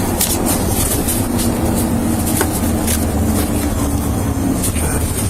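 Steady low drone of a vehicle's engine and road noise heard from inside the cabin, with a few scattered light ticks and rustles.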